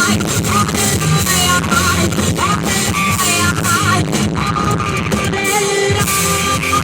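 Live rock band playing an instrumental passage: an electric guitar lead line bending and wavering over drums and bass.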